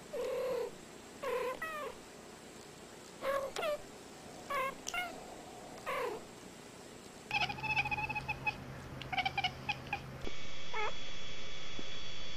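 Domestic cats meowing: several short separate meows, then about seven seconds in a quicker run of higher, shorter mews. Near the end the sound changes abruptly to a steady hum with a faint meow or two over it.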